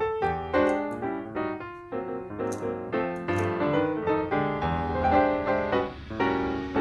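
Background piano music: a melody and chords played at a steady, moderate pace.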